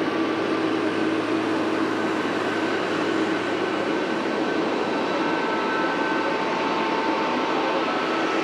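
Jet airliner engines running at a steady level: an even rushing noise with a few thin, steady whining tones over it.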